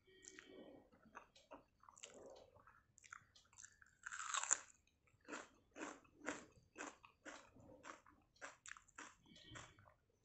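Close-up eating sounds of a person chewing mouthfuls of pantabhat with fried besan pakoras and raw onion: a loud crunching bite about four seconds in, then steady chewing at about three chews a second.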